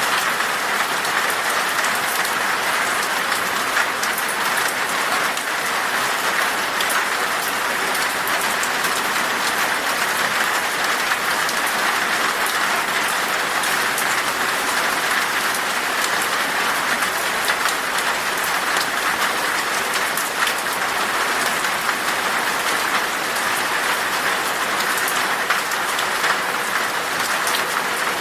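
Steady rain falling in a forest, an even hiss dotted with individual drops pattering on surfaces.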